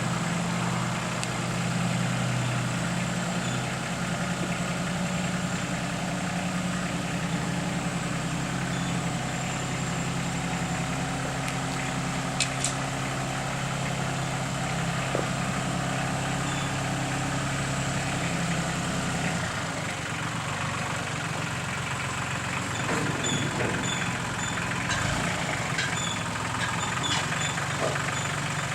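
Backhoe loader's diesel engine running steadily; about two-thirds of the way through its note changes. A sharp click partway through and a few knocks near the end.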